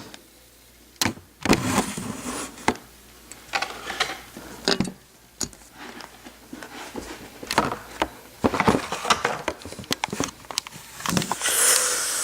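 Handling noise from unpacking a model airliner: scattered small clicks and taps, with short bursts of plastic packaging crinkling, the longest near the end.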